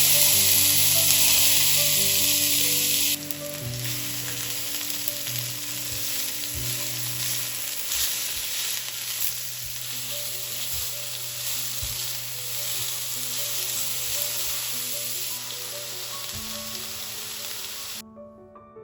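Food sizzling in hot oil in a frying pan, loudest for the first three seconds, then softer and steady, with a few light knocks; the sizzle cuts off shortly before the end. Soft background music plays underneath.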